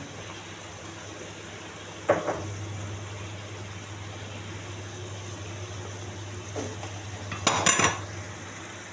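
Utensil knocking against a pot while foam is skimmed off simmering chicken stock: one sharp knock about two seconds in and a quick run of clinks near the end, over a steady low hum.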